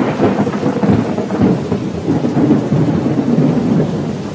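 A thunderstorm: continuous rumbling thunder over falling rain, loud and easing off slightly toward the end.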